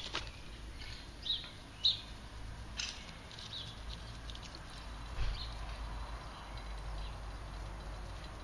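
Scattered short bird chirps over a steady low rumble, with a couple of sharp clicks near the start and about three seconds in.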